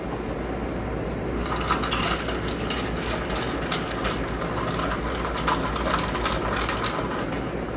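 Close-miked mouth sounds of eating: a dense run of small wet clicks and smacks lasting several seconds, over a steady low hum.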